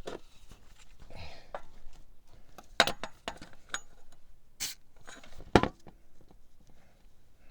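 A few sharp clicks and light knocks of parts being handled while an oil filter's sealing surface is greased, with faint scraping and ticks in between; the loudest knock comes a little after halfway.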